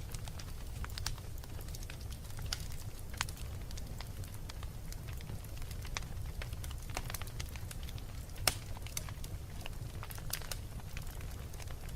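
Wood fire burning in a fireplace: a low steady rumble with scattered sharp crackles and pops, the loudest pop about eight and a half seconds in.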